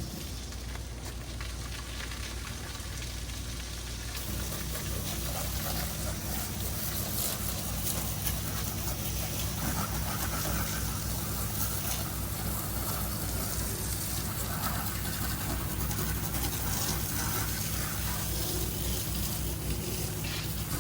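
Pressure-washing rig's engine running steadily, with water spraying.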